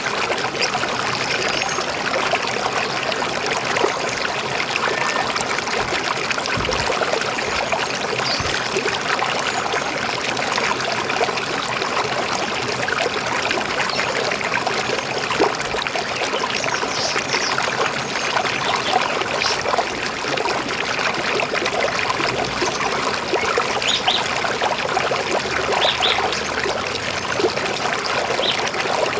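Steady trickling and babbling of a flowing river.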